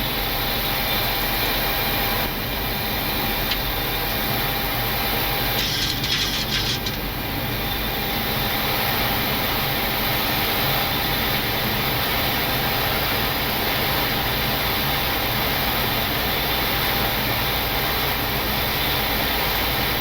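Steady rushing airflow and engine noise on the flight deck of a Boeing 737-800 on final approach, with landing gear down and flaps at 30. A brief higher hiss rises over it about six seconds in.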